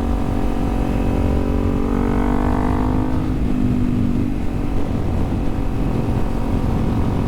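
Kawasaki Z400 parallel-twin engine running at a steady cruise, with wind rumbling on the microphone. The engine note rises slightly about two seconds in, then settles back.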